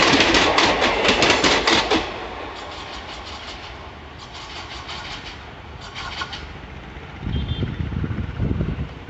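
Wheels of ICF passenger coaches clattering rapidly over rail joints as the last coaches of an express pass close by. The clatter cuts off about two seconds in as the train's tail goes past, and fainter clatter follows as the train recedes. Near the end there are low, uneven rumbling surges.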